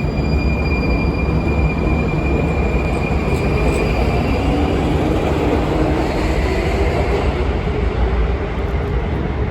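Prague Metro train departing the platform: steady rumble, with a high tone that fades out about halfway through and a rising motor whine in the middle.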